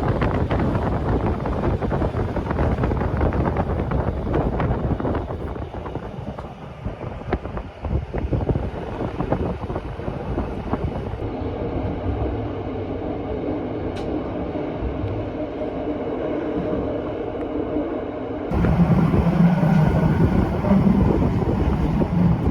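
Rhaetian Railway electric train running on the track: rumble and wheel-on-rail clatter with frequent clicks. About halfway through, a steady hum comes in, and it turns abruptly louder shortly before the end.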